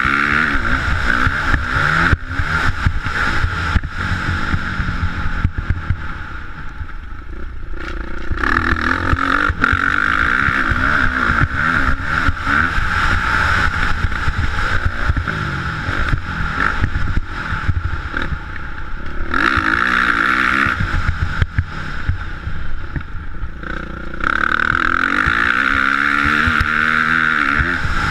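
Motocross bike engine revving up and falling back again and again, with louder spells and dips.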